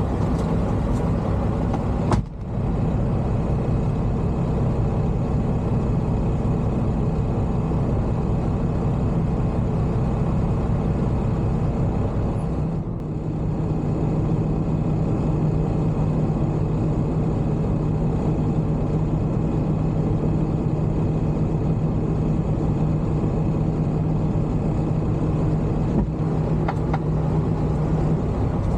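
Truck engine running with a steady low drone, broken briefly about two seconds in and again around thirteen seconds, after which a steady low hum stands out.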